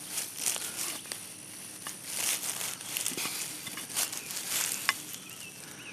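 Digging in soil to recover a metal-detector target: irregular scraping and crunching of dirt and grass, busiest in the middle.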